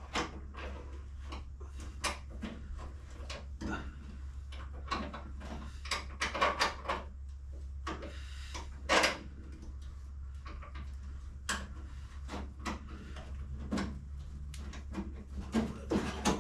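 Scattered knocks and clanks of metal tools and parts being handled, in short irregular clusters, over a steady low hum.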